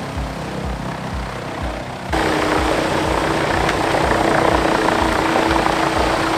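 Heavy wood-processing machine's engine running with a regular low pulse, about three beats a second. About two seconds in it gets suddenly louder, with a rough noise and a steady hum over the pulse.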